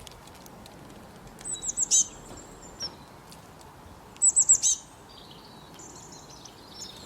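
Bullfinch calling: two quick runs of about four short, high, downward-sliding chirps, about a second and a half in and again about four seconds in, with a few fainter chirps near the end, over faint outdoor background noise.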